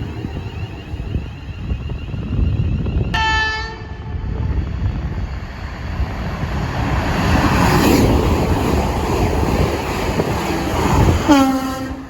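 A train passing through the station: its running rumble builds over several seconds, and the horn sounds twice, a short high note about three seconds in and a lower note near the end.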